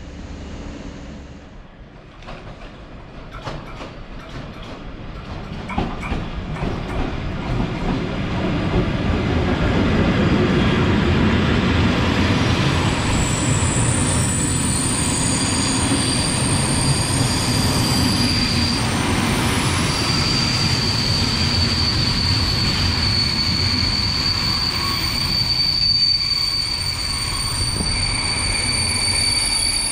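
Locomotive-hauled passenger train rolling past close by, growing louder as it comes, with its wheels clicking over rail joints. About halfway through, a high, steady squeal from the wheels sets in and holds over the rumble of the coaches.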